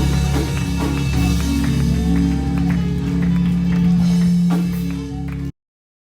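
Instrumental worship music from a live band, sustained chords with light drum and cymbal hits, that cuts off abruptly about five and a half seconds in.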